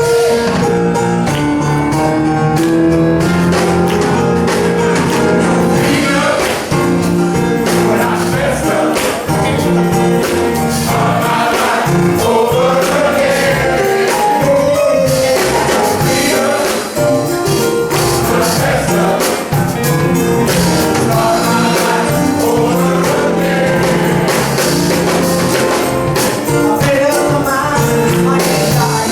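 Male chorus singing a gospel song, with a tambourine keeping the beat over instrumental accompaniment.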